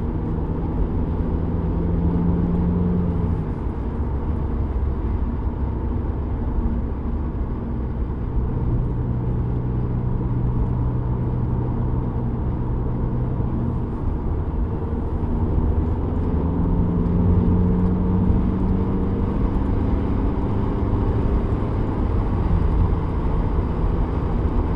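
Cabin noise of a 2007 VW Golf GT TDI with its 2.0 litre BKD diesel, driving: a steady low engine and road rumble with a low hum that shifts in pitch a few times. There is wind noise from a window left open for a sensor wire. The car has an engine-speed-related humming vibration that the owner suspects comes from the dual-mass flywheel.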